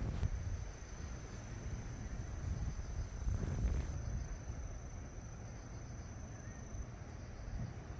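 Strong wind rumbling and buffeting on the microphone, in gusts. Over it runs a steady, thin high-pitched tone that cuts off near the end.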